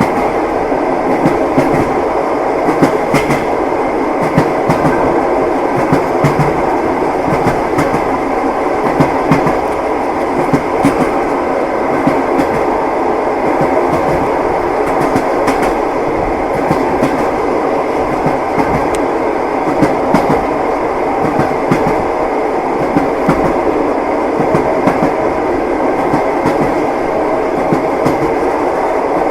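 Train running steadily on the rails: a continuous rumble with the repeated clickety-clack knocks of the wheels over the rail joints.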